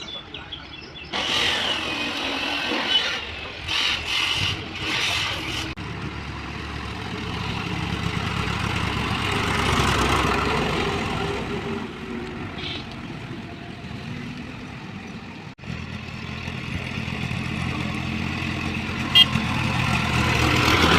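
Heavy machine's engine running, with several short louder bursts in the first few seconds. It then swells and eases over the next several seconds, and settles to a steady low hum after a brief break.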